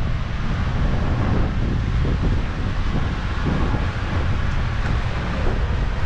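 Wind buffeting the microphone in an uneven low rumble, over the steady hiss of city street traffic.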